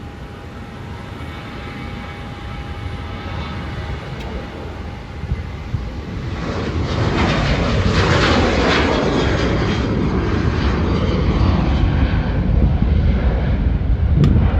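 Boeing 737-700's CFM56 jet engines at takeoff power on its departure. A steady engine whine grows louder, and from about six seconds in it swells into a loud, rushing jet noise that holds as the airliner passes.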